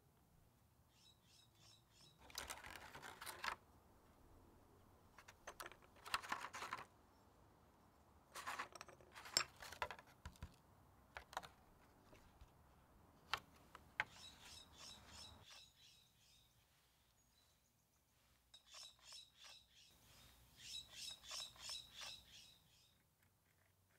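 Faint bird chirps in short, quick runs of repeated calls, the longest run near the end. Between them come a few rustling scrapes and some sharp clicks.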